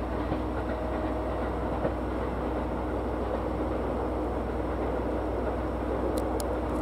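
Train on the Ou Main Line, a steady low rumble with a faint humming tone. Two light clicks come near the end.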